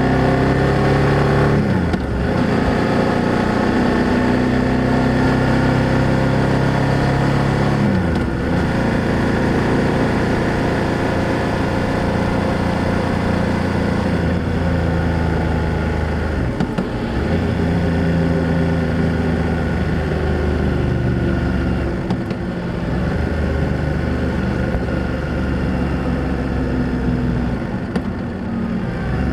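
BMW F800GS motorcycle's parallel-twin engine and exhaust under way, the note rising and falling with speed, with brief dips at gear changes about five times.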